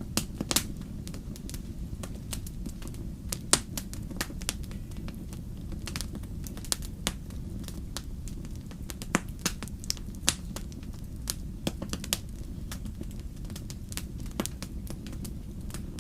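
Wood fire in a fireplace crackling: irregular sharp pops and snaps, a few louder than the rest, over a low steady rumble.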